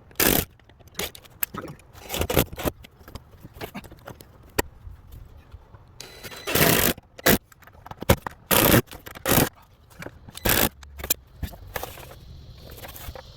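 Irregular scrapes and knocks, about a dozen short ones with gaps between, from hands-on fence repair work.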